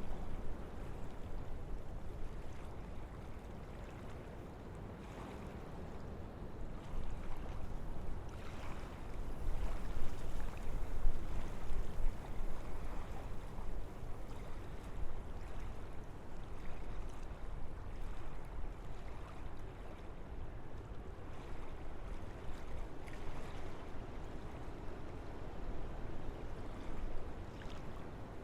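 Wind blowing through forest trees, a steady rushing of leaves and branches that swells into a stronger gust about a third of the way in and then eases back.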